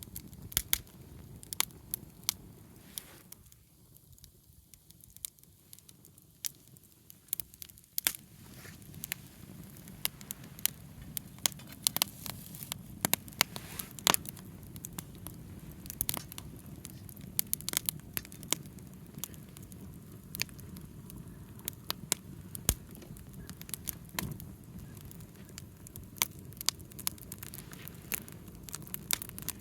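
Wood campfire crackling, with many sharp pops and snaps over a low rush of burning flames that grows stronger about eight seconds in.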